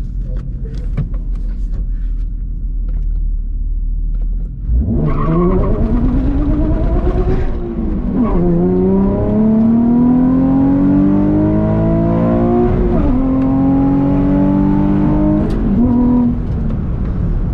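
Nissan 350Z Nismo's VQ35HR V6 idling at the line, then launching about five seconds in and revving hard through the gears, with shifts near eight, thirteen and sixteen seconds. The first upshift misses second gear.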